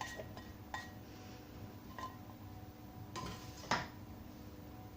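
A cooking utensil clinking against a wok and dish about four times as chicken is added and tossed into the stir-fry, the loudest knock near four seconds in.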